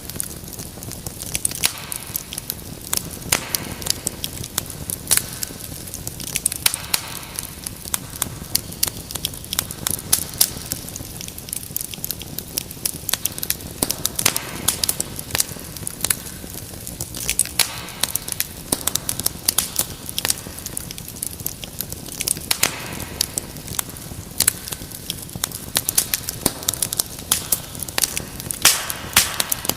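Wood fire crackling: many irregular sharp pops and snaps over a low steady hiss and rumble of burning logs.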